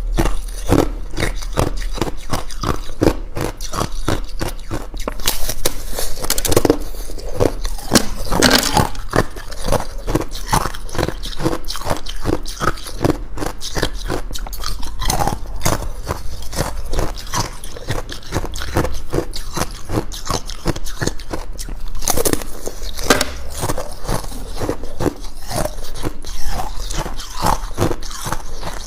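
A person biting and chewing ice cubes close to the microphone: loud, continuous crunching with fast, irregular cracks of ice breaking between the teeth.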